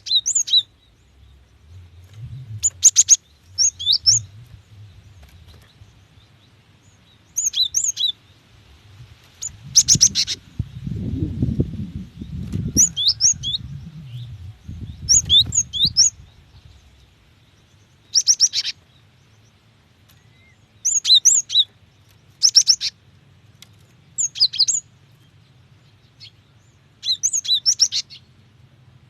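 Female cinereous tit calling in short bursts every two to three seconds, each a rapid buzzy chatter or a few quick rising-and-falling whistled notes. A low rumble runs under the calls for several seconds in the middle.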